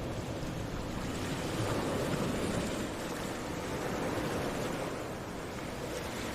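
Ocean surf washing onto a beach: a steady rush of waves that swells a little about two seconds in, then eases.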